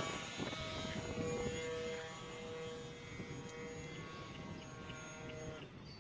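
Electric motor and propeller of an E-flite Air Tractor 1.5 m RC plane whining in flight, stepping up and down in pitch with the throttle and growing fainter; the whine stops a little before the end.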